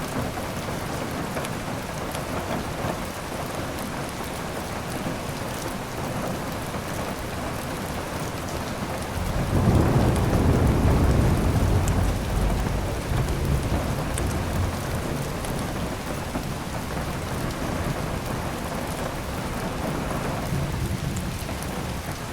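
Steady rain with a roll of thunder that swells suddenly about nine seconds in, then rumbles on and fades over several seconds.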